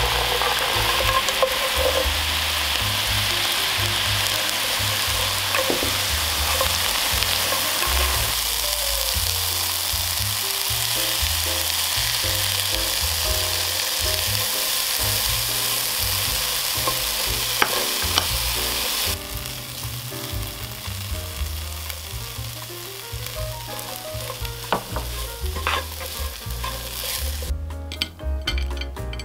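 Dried shrimps, walnuts and garlic sizzling as they are stir-fried with a spatula over medium heat in a boiling soy sauce and honey glaze in a nonstick pan. The sizzle drops noticeably about two-thirds of the way through, and near the end a spoon clinks lightly on a ceramic plate as the stir-fry is served.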